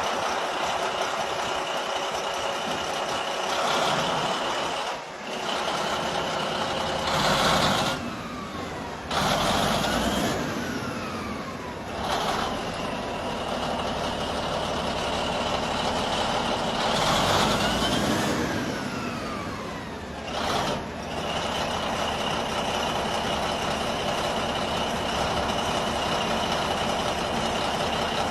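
Restored Caterpillar D9 bulldozer's diesel engine running just after start-up. It is revved several times, each rev followed by a whine falling in pitch as the engine settles back, with a steady high whine in between.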